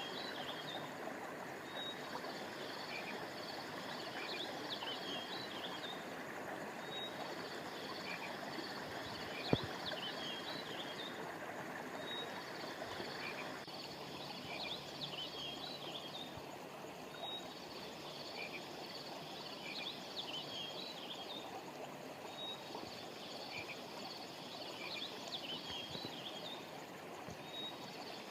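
Steady rush of a flowing river, with clusters of small, high chirping calls recurring every few seconds above it. The water noise turns duller about halfway through, and there is one sharp click about a third of the way in.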